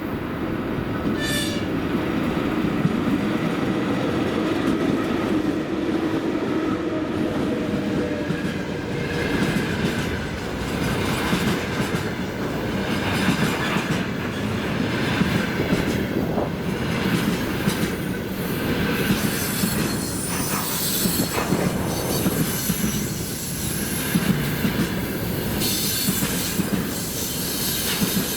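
Freight train hauled by a VL80S electric locomotive rolling past at close range: a steady heavy rumble with wheels clattering over rail joints. High-pitched wheel squeal comes in and out through the second half.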